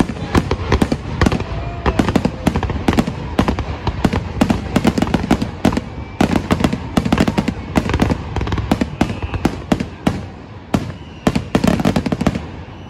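Fireworks display: a rapid barrage of bangs and booms, several a second, as aerial shells and rising comets go off overhead, thinning out near the end.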